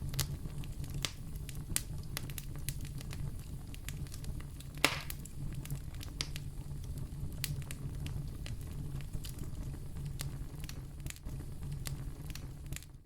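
Wood fire burning in a fireplace: a steady low rumble of flames with frequent sharp crackles and pops, one pop about five seconds in louder than the rest.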